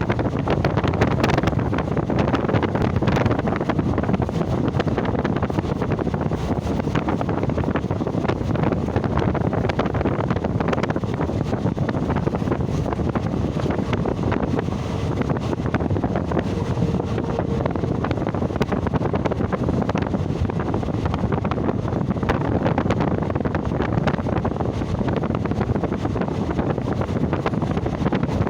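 Steady wind buffeting the microphone, with a constant low rumble underneath.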